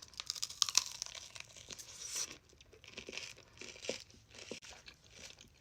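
Crunchy coating of a frozen ice-cream 'fried chicken' piece crackling as it is bitten into: a dense crackle for about the first two seconds, then scattered smaller crunches. The ice cream is hard, straight from the freezer.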